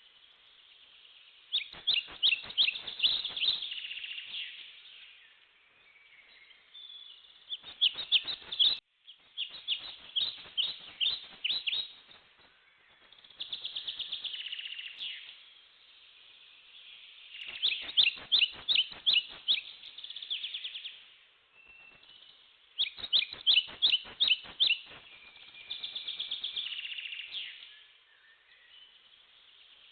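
Bird calling in repeated runs of rapid, sharp notes, each run about two seconds long and coming every few seconds, with softer chattering in between.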